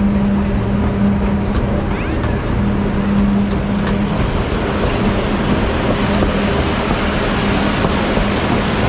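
Narrow-gauge forest railway train running: a steady rumble of the moving train with a constant low hum.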